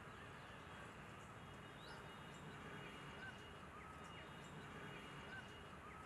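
Faint, steady background hiss with a few short, faint bird chirps and whistles scattered through it.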